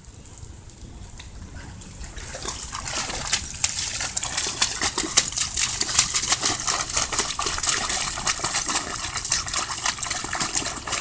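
A dog splashing about in a muddy puddle: a dense run of wet splashes and spatters that starts about two seconds in and keeps going.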